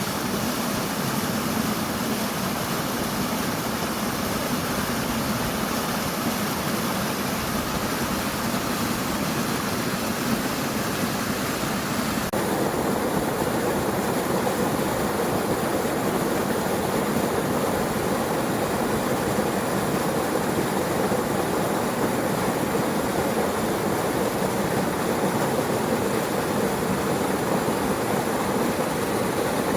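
Mountain stream rushing over rocks, a steady noise that changes character abruptly about twelve seconds in.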